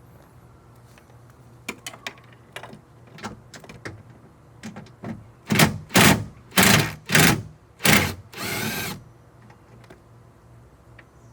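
Ratchet wrench loosening a side-mirror mounting nut inside a car door. Light clicks and taps, then, about five seconds in, five or six short loud bursts of ratcheting, the last about a second long.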